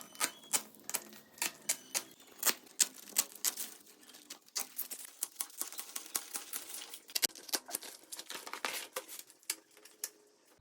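Dry plant strips being handled and plaited by hand into a mat, giving quick, irregular sharp clicks and crackles.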